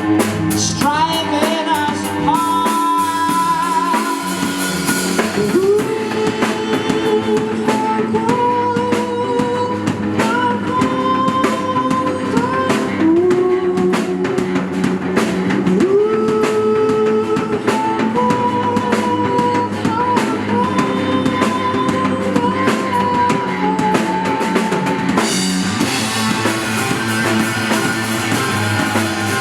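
Rock band playing live: drum kit, guitar and bass under a held melody line that slides up into long sustained notes.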